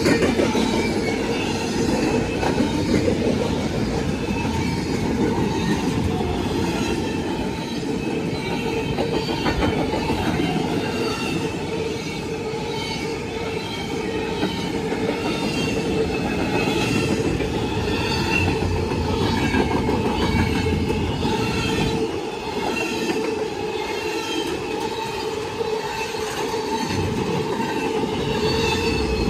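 Intermodal freight train's container cars rolling past close by: a steady, loud noise of steel wheels on rail with evenly repeating clicks as the wheels pass over the rail.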